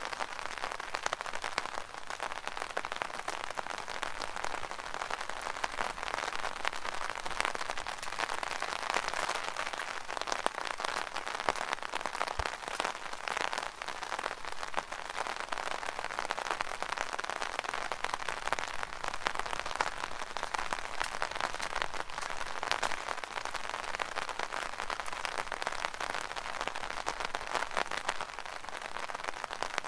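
Rain falling on an umbrella: a dense, steady patter of many small drops.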